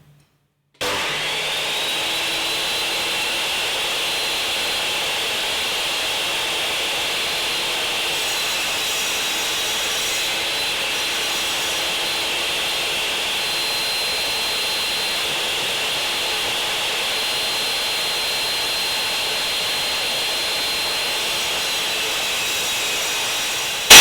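Circular saw in a saw bench spinning up with a rising whine, then running steadily with a high whine for over twenty seconds. It ends in a brief, much louder burst that cuts off abruptly.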